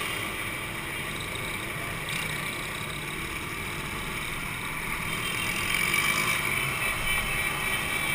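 Two-stroke motorcycle engines running steadily, a little louder about six seconds in.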